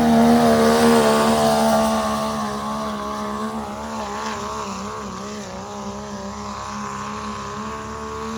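Diesel pickup truck engine held at high, steady revs under load on a truck pull, growing gradually fainter.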